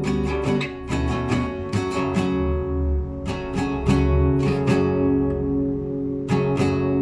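Classical guitar played solo: improvised arpeggios of plucked notes over ringing bass notes. After about five seconds the plucking pauses while the chord rings, then resumes.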